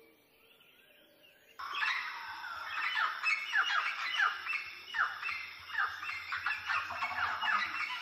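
Bird calls begin suddenly about a second and a half in: a quick series of loud calls, each note sliding downward, about two a second.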